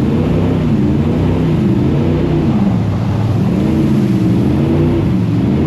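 Jet boat engine running hard, its pitch dropping and climbing again several times as the throttle is eased and opened, over a steady rush of wind and water.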